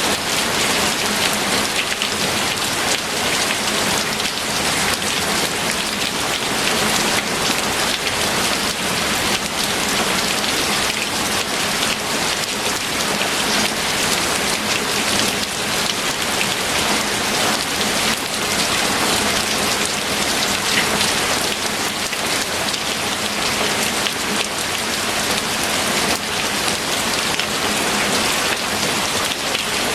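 Rain falling steadily and heavily: a dense, even hiss with many separate drop impacts ticking through it.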